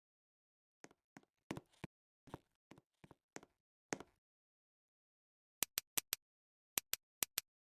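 A few irregular soft knocks and taps, then eight short, sharp clicks in quick pairs, with dead silence around them.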